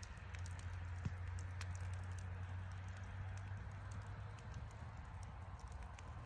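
Wood fire crackling, with scattered sharp pops and clicks at irregular intervals over a steady low rumble.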